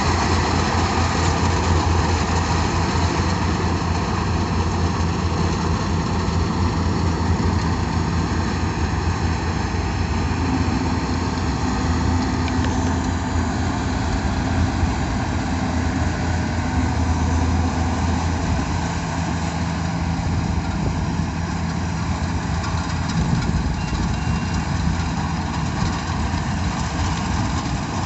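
Yanmar tracked rice combine harvester running steadily, its engine a constant low hum with machinery noise over it.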